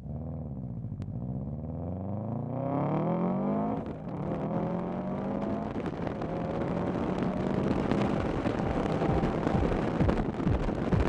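2006 Subaru STi's turbocharged flat-four with a race exhaust, accelerating hard: the revs climb for about four seconds, drop sharply on an upshift, then climb again.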